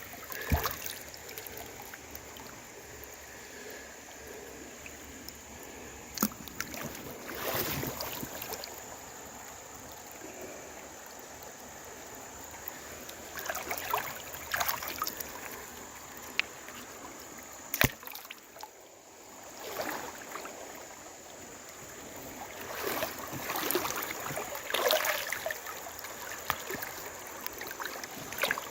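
Creek water running steadily, with repeated sloshing and splashing from wading through it. A few sharp knocks, the loudest about 18 seconds in, like stones being knocked together.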